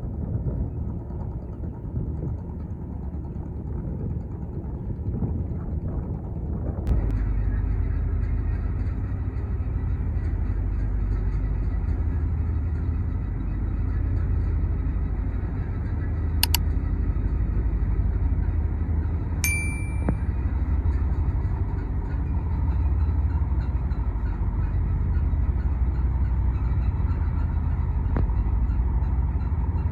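A boat's engine running with a steady low hum that gets louder and fuller about seven seconds in. There is a single sharp click, and a few seconds later a short ringing tone.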